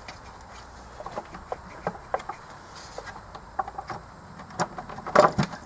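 Light clicks and taps of the fuel rail and injectors being handled and lined up with their holes in the intake manifold, with a louder cluster of knocks about five seconds in.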